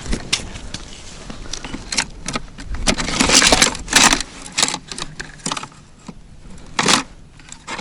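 Irregular rustling, scraping and clicking from small ice-fishing rods and gear being handled, with the louder bursts about three and four seconds in and again near the end.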